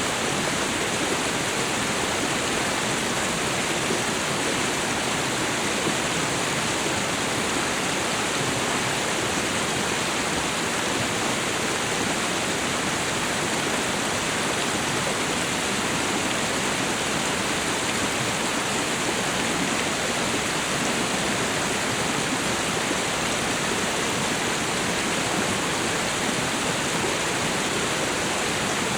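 Waterfall and river water rushing steadily, an even, unbroken hiss of falling and flowing water.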